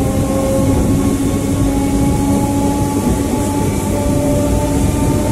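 Passenger train coaches passing close by on the adjacent track, a steady, continuous rolling rumble with a few faint steady whining tones over it that creep slightly upward in pitch.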